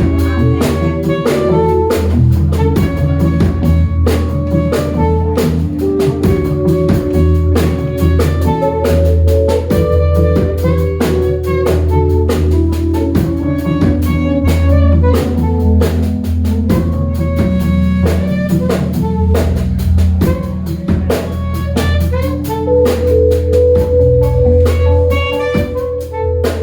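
Instrumental jazz played by a small band: drum kit with steady hits over guitar and keyboard, and a sustained bass line.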